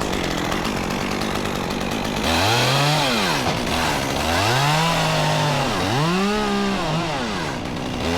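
Two-stroke chainsaw running, then revved up to full throttle and let back down about three times, the engine note climbing, holding and falling with each rev.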